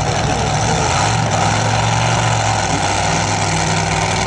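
Two-wheel-drive pulling truck's engine running hard at high throttle, loud and steady, with its note stepping up about a second in.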